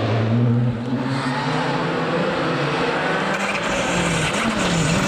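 Rally car engine under power, its revs dipping briefly about a second in, then climbing and wavering near the end.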